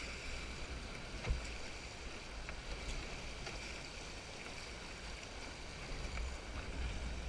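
River water running and splashing around a canoe drifting downstream, a steady wash with a single knock about a second in and a few faint ticks.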